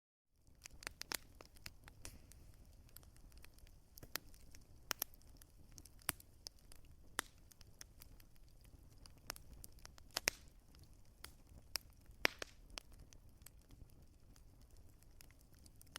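Wood fire crackling: irregular sharp pops and snaps over a soft low hiss, after a brief cut to silence at the very start.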